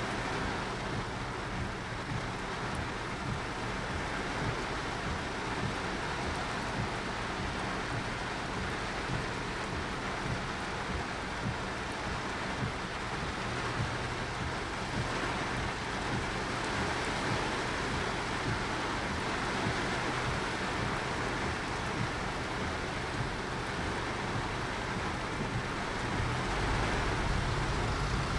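Torrential typhoon rain pelting a moving car, heard from inside the cabin as a steady hiss over the low rumble of the road; the rumble grows louder near the end.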